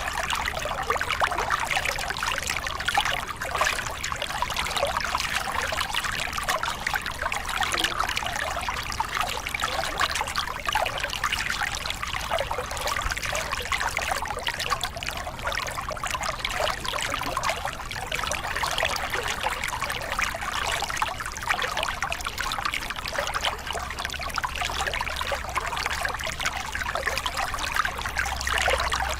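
Small river cascade: water pouring and splashing over rocks in a steady, continuous rush.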